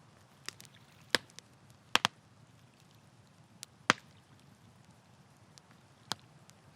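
Campfire wood crackling: irregular sharp pops and snaps over a faint low hiss of the flames, with the loudest pops a little after one second, around two seconds, and near four seconds in.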